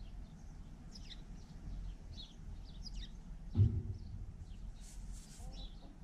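Small birds chirping: short, quick downward chirps scattered throughout, over a low background hum. A single low thump about three and a half seconds in is the loudest sound.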